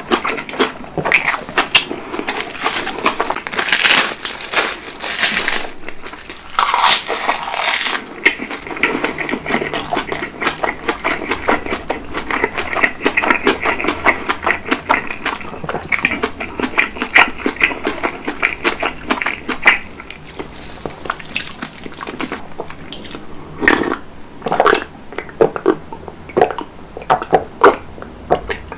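Close-miked chewing of a mouthful of napa cabbage kimchi: a dense, continuous run of small crisp clicks and wet mouth sounds. Near the end he sips water from a glass.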